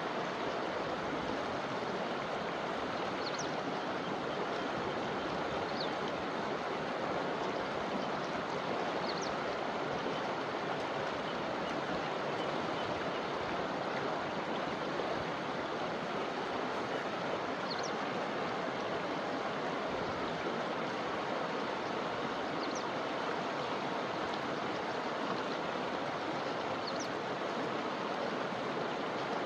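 River water flowing over rocks: a steady, even rushing with no let-up, and a few faint, short high chirps now and then above it.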